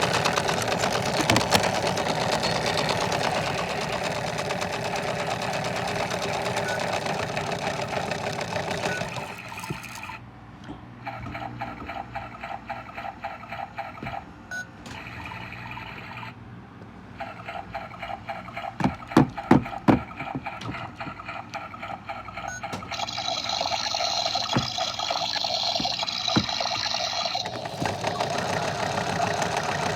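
Washing machine running through its wash cycle: a steady mechanical motor and drum sound with water sloshing, which drops quieter and changes character about a third of the way in, has a short run of sharp knocks near the middle, then builds back to the louder running sound near the end.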